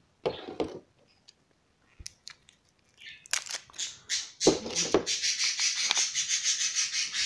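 Plastic handling noises from a small TV remote and its batteries: a few light clicks and knocks, then a fast, loud scratching rasp for the last few seconds.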